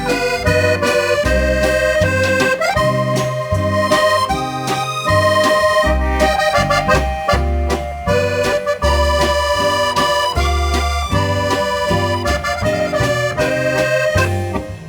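Accordion instrumental: a held, reedy melody over a steady oom-pah bass-and-chord accompaniment.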